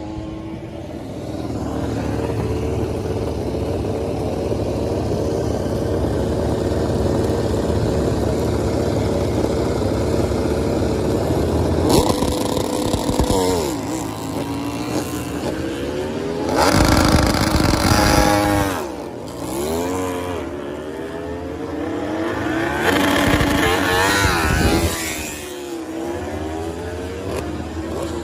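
MotoGP racing motorcycles' four-cylinder engines at high revs passing one after another. A distant engine builds steadily, then come three loud pass-bys, the engine pitch dropping sharply as each goes past.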